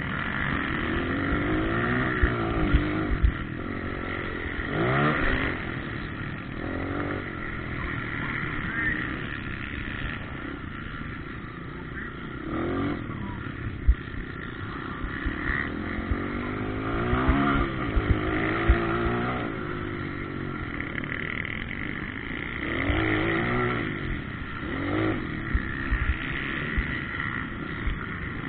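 Motocross dirt bikes revving hard around the track, their engine notes rising and falling as they pass one after another, with short thumps in between.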